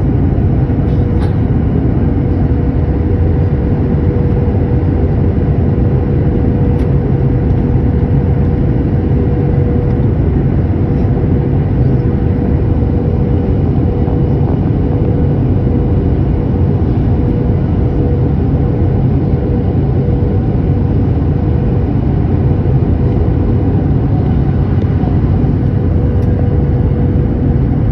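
Jet airliner cabin noise in flight: a steady rush of engine and airflow noise with a constant mid-pitched hum running through it.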